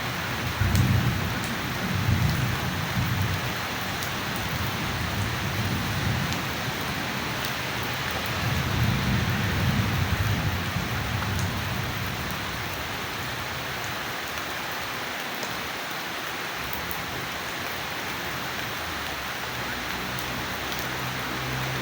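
Steady rain with thunder rumbling low through roughly the first half. The thunder swells about a second in and again around nine to ten seconds, then dies away, leaving rain alone.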